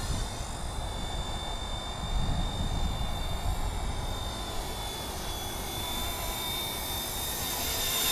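Radio-controlled scale MD 500 helicopter in flight: a steady high whine over the low flutter of the rotor.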